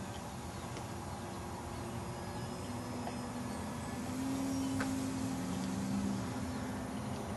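Radio-controlled model airplane's small engine in flight at full throttle, a thin drone that swells louder for a couple of seconds in the middle as the plane comes closer, then fades.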